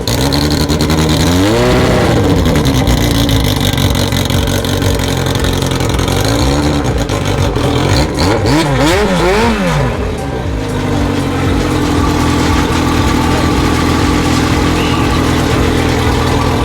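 1983 Kawasaki KZ1000R Eddie Lawson Replica's air-cooled inline-four running at idle after start-up. Its throttle is blipped once about two seconds in, then three quick revs follow a little past halfway, each rising and falling back to idle.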